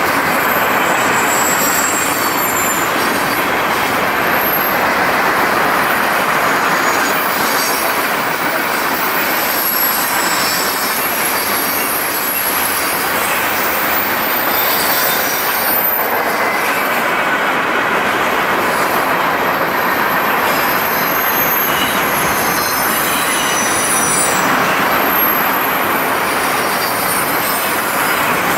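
Freight train cars rolling past at a steady speed, with a continuous rumble of wheels on rail and thin, high-pitched wheel squeals that rise and fade throughout.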